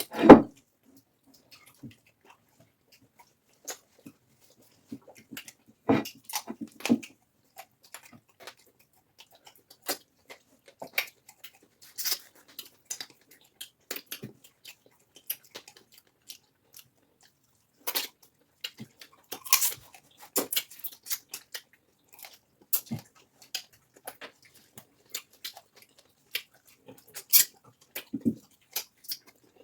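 Close-up eating sounds: irregular wet mouth smacks, clicks and chewing of fufu and egusi soup, with a louder smack right at the start.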